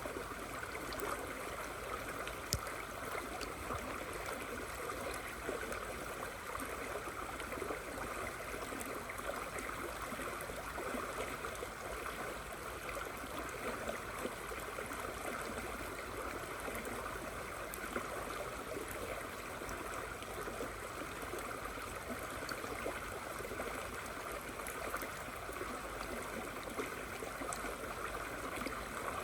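River flowing steadily in rain, an even rushing of water with scattered sharp ticks of raindrops.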